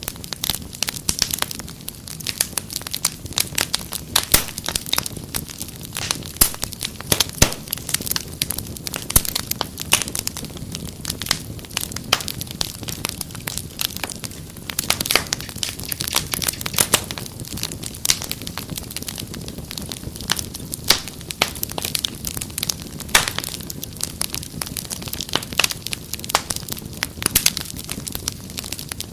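Wood fire crackling steadily, with frequent sharp irregular pops and snaps over a low rumble of burning.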